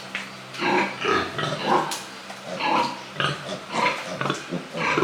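Pigs grunting: a string of short, irregular calls, several a second.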